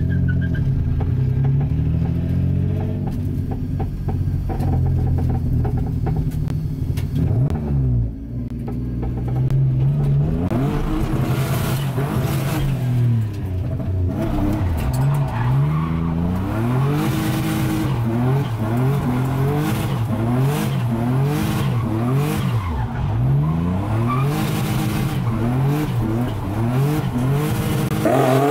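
Single-turbo Nissan 350Z's V6 engine running under load, then from about ten seconds in revving up and down over and over while the rear tires spin, with a hiss of tire squeal under the revs.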